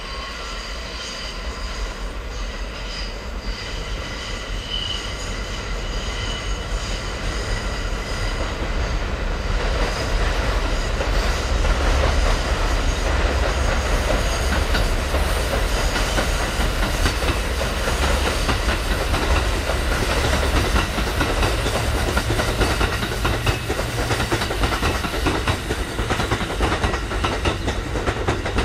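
Kintetsu electric train passing over a concrete viaduct. The wheels rumble and clatter over the rail joints, growing louder for about ten seconds and then staying loud. Steady high-pitched ringing tones sound over the first third.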